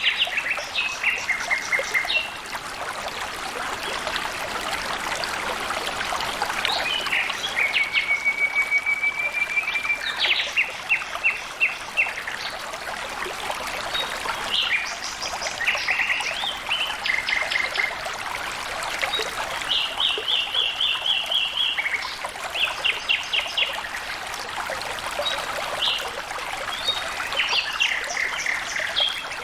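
Water trickling and flowing steadily, with a songbird singing repeated short phrases of quick chirping notes, some with a held whistle, throughout.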